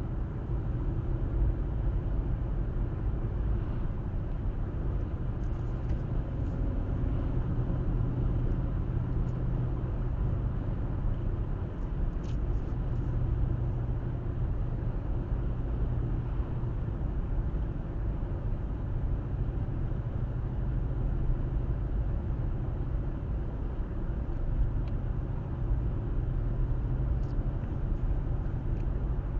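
Car driving at a steady speed: a constant low rumble of tyres on the road and engine, with a few faint ticks.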